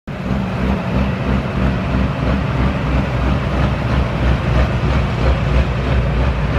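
Diesel engine of a modified pulling tractor running steadily, a low continuous throb.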